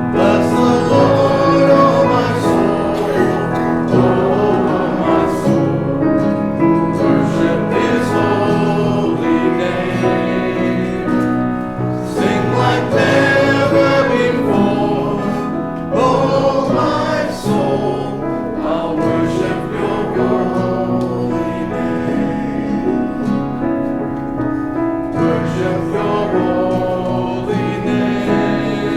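A choir or congregation singing a hymn with piano accompaniment.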